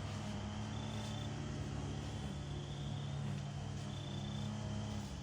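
Peep frogs (spring peepers) calling in high, thin notes that recur every second or so, over a steady low hum of background noise pollution.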